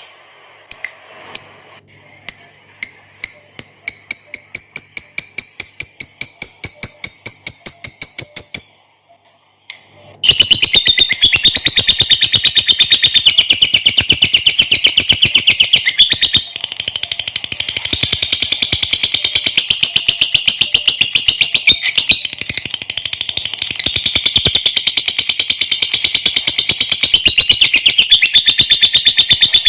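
Lovebird giving its long rapid chattering song (ngekek panjang), a fast string of sharp high notes at about four a second that breaks off briefly around nine seconds in, then resumes as a dense, unbroken chatter.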